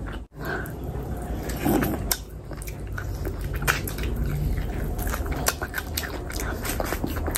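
Close-miked chewing with wet mouth smacks and clicks as a person eats curry and rice-soaked food with her hand. The sound drops out for a moment just after the start.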